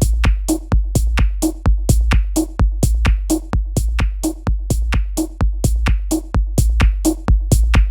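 Experimental techno loop made with Ableton Live devices: fast, even clicky drum-machine percussion over a steady deep sub-bass, with a short mid-pitched tone repeating about once a second.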